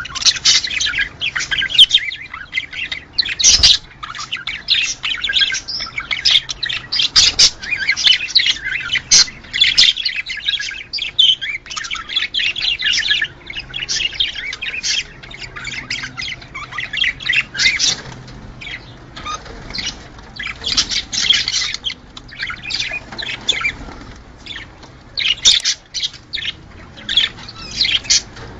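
A flock of budgerigars chattering: dense, rapid chirps, warbles and squawks, with a few short lulls.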